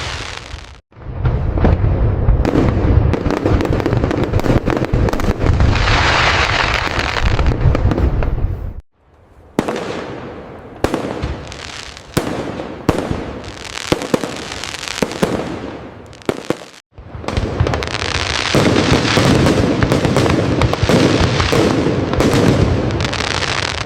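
Fireworks display: dense volleys of sharp aerial bangs over a deep rumble, with stretches of crackling, and a sparser run of separate bangs in the middle. The sound cuts out abruptly three times, as at joins between recordings.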